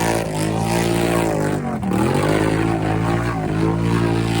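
Built Polaris Sportsman 850 ATV engine held at high revs as it churns through a mud hole. Its pitch dips briefly about two seconds in, then climbs back.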